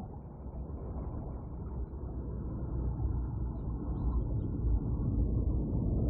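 A deep, steady rumble that swells gradually louder.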